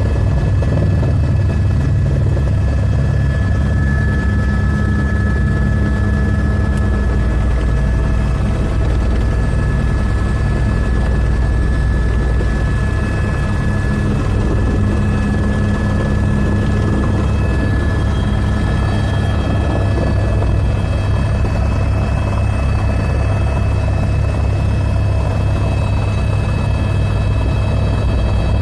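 Helicopter rotor and engine running steadily and loudly, a constant low rumble with a steady whine above it.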